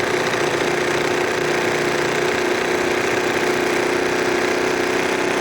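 Bassett-Lowke live steam engine in a model boat running steadily at speed on about 25 to 30 psi of steam, giving an even mechanical running noise with a constant hum.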